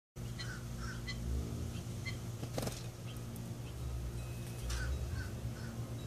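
Outdoor birds giving short, separate chirps, with a brief rustle about two and a half seconds in, over a steady low hum.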